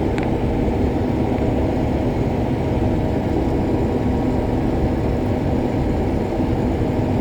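Case IH Axial-Flow 7150 combine running steadily while harvesting soybeans, heard from inside the cab: a constant, even drone with a steady hum.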